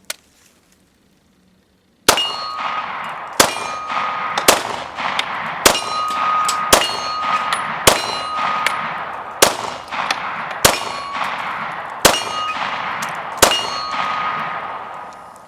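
Ten shots from a Glock 19 9mm pistol fired at a steady pace, a little over one a second, starting about two seconds in. Each shot is followed by a long, ringing metallic clang that fades out before the next.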